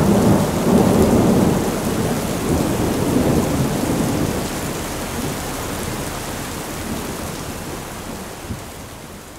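Steady heavy rain with a low rumble of thunder in the first few seconds. The whole fades out gradually toward the end.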